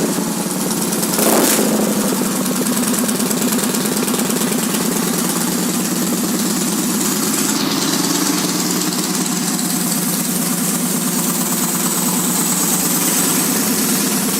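A Victory Vegas motorcycle's 106 cubic inch fuel-injected V-twin idling steadily through an aftermarket exhaust. There is a short louder swell about a second in.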